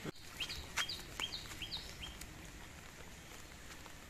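A bird calling a quick run of about five short, high chirps in the first two seconds, over a faint steady outdoor background.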